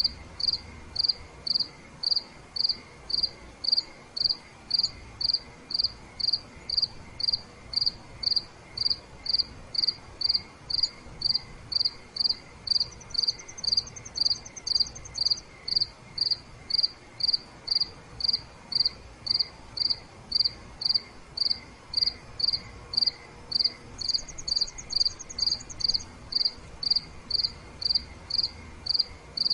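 Crickets chirping: one loud, steady chirp about one and a half times a second. Twice, a fainter, higher, faster trill joins for two to three seconds.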